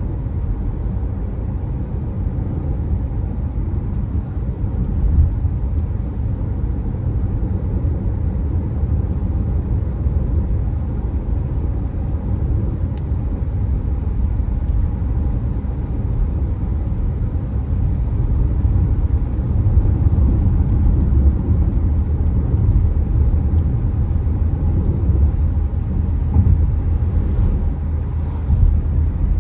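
Car driving along a road: a steady low rumble of engine and tyre noise, growing a little louder about two-thirds of the way through.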